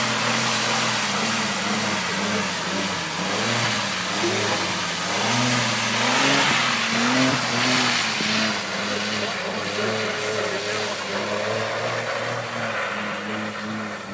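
Vauxhall Vectra VXR's turbocharged V6 engine revving under heavy throttle, its pitch rising and falling repeatedly as the car struggles through a flooded, muddy field. A broad hiss of spinning tyres and spraying mud and water rides over it, loudest about halfway through.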